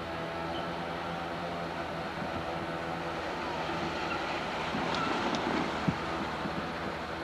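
Diesel locomotive engine idling with a steady hum, with some clattering about five seconds in and a single sharp knock just after.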